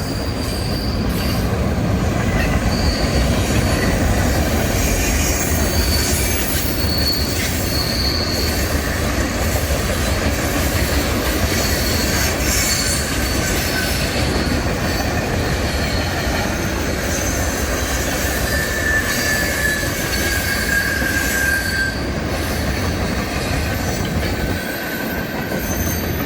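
Freight train of covered garbage cars rolling past in a steady rumble, its wheels letting out short high-pitched squeals now and then.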